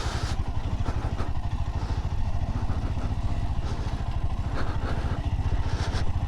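Motorcycle engine running steadily while riding over rough, unpaved road, with a few faint rattles.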